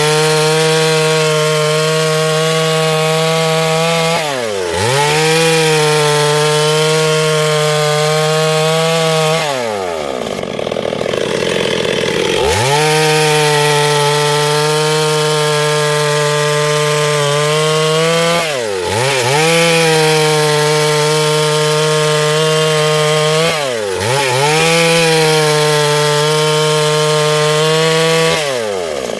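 Chainsaw running at full throttle, cutting through a log lengthwise to saw out boards. Its engine pitch dips briefly every few seconds. About ten seconds in it drops off for roughly three seconds, then is opened up again.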